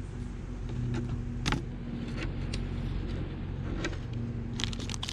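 A steady low hum with a few sharp clicks and taps of small metal parts being handled, including a quick run of clicks near the end.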